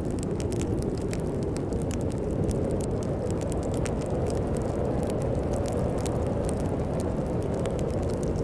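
A wood fire crackling with frequent sharp pops over the steady low roar of a snowstorm's wind.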